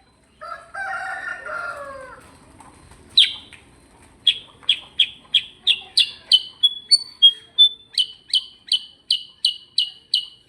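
A lower falling call lasting nearly two seconds, then a kutilang sutra songbird in its rolling 'ngerol' song: a long run of sharp high chirps about three a second, broken by a few short held whistles partway through.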